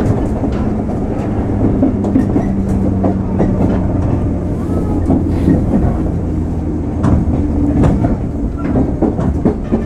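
A JR 103 series electric train running, heard from inside the carriage: a steady low rumble and hum of the running gear, with the wheels clacking over rail joints a few times in the second half.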